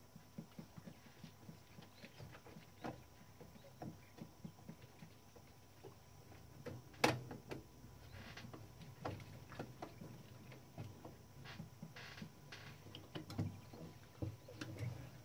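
Irregular small clicks and taps from work on a Klein Adler 2 portable typewriter's mechanism, with one sharp, louder click about seven seconds in.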